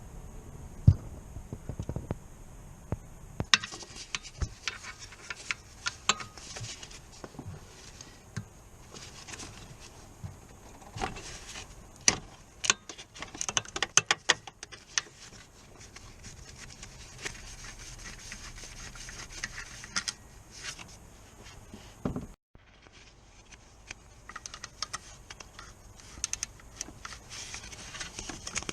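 Hand tools and metal parts clinking, tapping and scraping in irregular knocks, with a quicker run of clicks in the middle.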